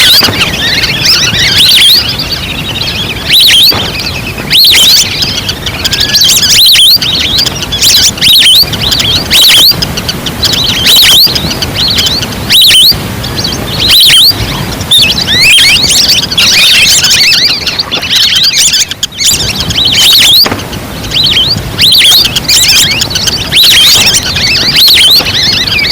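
Recorded wild duck calls played as a hunting lure: a loud, continuous flock chorus of short, high whistled chirps and squeaky notes, overlapping one another.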